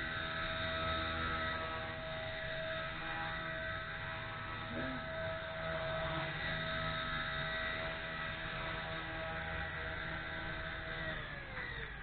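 WLtoys V930 brushless RC helicopter's motor and rotor spinning at a steady pitch, with the helicopter seeming not to lift off. Near the end the pitch falls as the rotor spools down.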